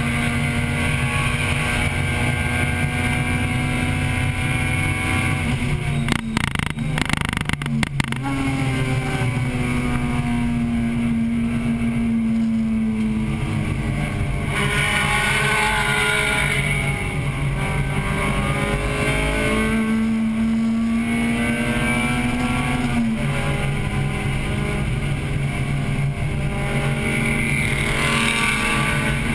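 1998 Acura Integra Type-R's 1.8-litre VTEC four-cylinder engine running hard under race conditions, heard from inside the car, its pitch holding, easing down and climbing again as the car laps the track, over wind and road noise. A cluster of sharp knocks about six to eight seconds in.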